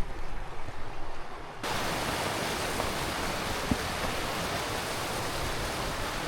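Steady rushing of running water, a creek or falls, that cuts in abruptly about a second and a half in and then holds level.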